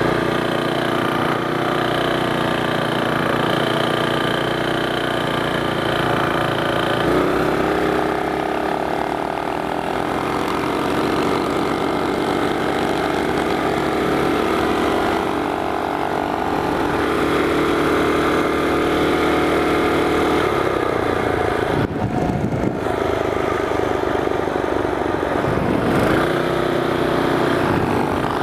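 Mini bike's small single-cylinder four-stroke engine held at high throttle in a drag run. Its pitch steps up about seven seconds in, then falls as the throttle is eased a little past twenty seconds, with another brief drop and pick-up near the end.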